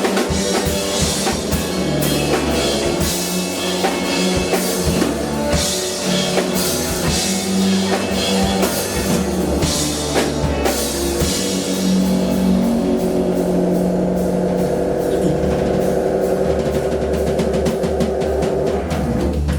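Live rock band playing, the drum kit prominent over bass and guitar. Past the halfway mark the chords are held under quicker, denser drum hits, and the music stops suddenly at the very end.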